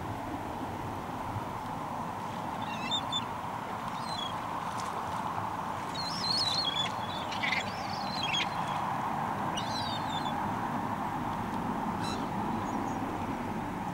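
A series of short, high bird calls with wavering pitch, coming in a cluster around the middle, over a steady background rush of wind and water.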